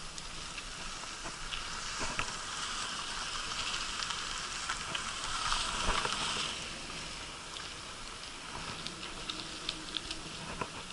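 Bicycle rolling over badly broken asphalt: steady tyre and road noise with scattered clicks and rattles, swelling for a few seconds in the middle.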